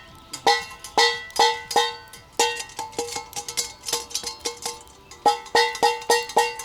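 A spoon clinking again and again against a metal mug, each clink ringing at the same pitch and dying away quickly, at about two to four clinks a second with a quicker run near the end.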